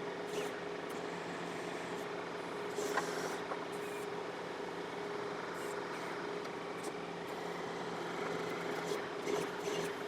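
John Deere 4052R compact tractor's diesel engine running at a steady speed, an even drone with a few light clicks over it.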